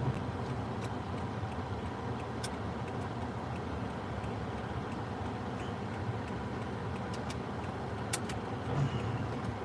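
A car running, a steady low rumble, with a few light clicks scattered over it.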